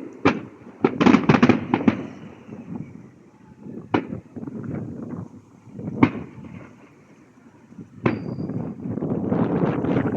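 Fireworks going off: a quick cluster of bangs in the first two seconds, then single sharp reports roughly every two seconds.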